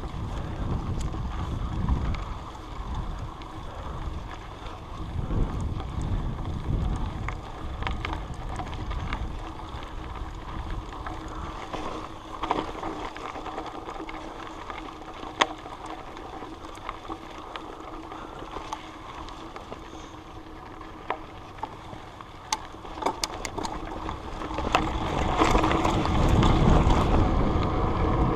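Mountain bike ride heard through a chest-mounted action camera: wind rumbling on the microphone, with scattered sharp clicks and rattles from the bike. It gets louder about 25 seconds in.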